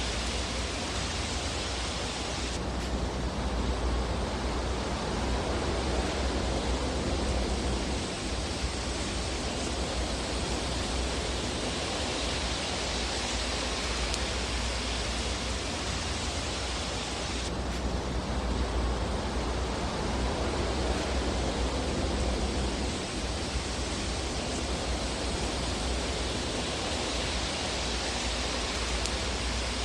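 Fireplace fire ambience: a steady, even rushing noise with a deep low rumble and no distinct crackles. The high end changes abruptly about two and a half seconds in and again a little past halfway.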